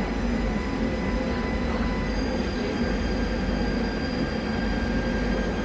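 KVB B80D light-rail car running, a steady rumble of its original traction motors and wheels under the thin high whine of its newly fitted traction converter. About two seconds in the converter's whine steps to a new set of pitches.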